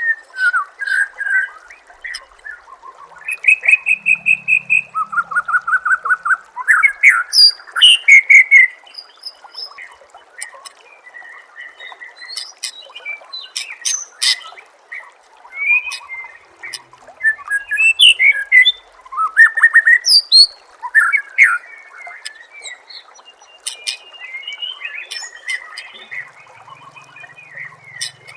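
Songbird masteran recording: a dense run of varied song phrases, with rapid trills, chirps and whistled notes one after another, over a steady background hiss.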